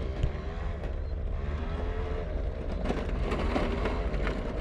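Moped engine running on a dirt track. Its pitch rises and falls as the throttle is opened and eased.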